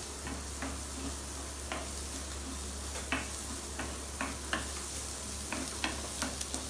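Chopped onions sizzling steadily as they fry, with a spoon stirring them and scraping and clicking against the pan every second or so at irregular intervals.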